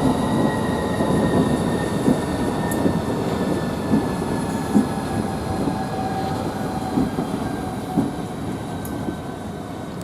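Southeastern Class 395 high-speed electric train pulling slowly into the platform: a steady rumble with a faint whine that drops slowly in pitch as it slows, and a few wheel knocks over the rail joints. The sound fades gradually.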